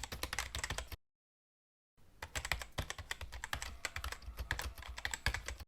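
Rapid typing on a computer keyboard, a dense stream of irregular key clicks, broken by a second of dead silence about a second in.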